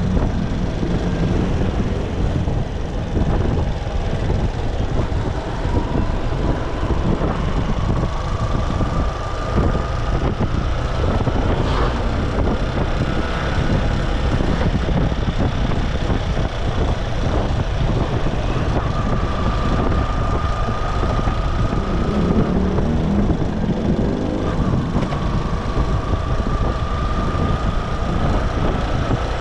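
Motorcycle engine running with road noise while riding, a steady low rumble; a faint whine rises slowly in pitch several times as it speeds up.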